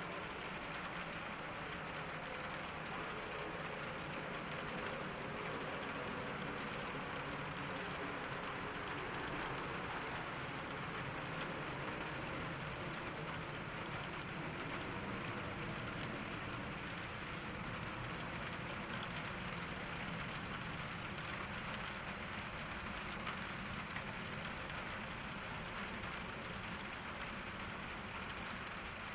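Steady summer rain falling in a garden. A short, high chirp repeats about every two and a half seconds.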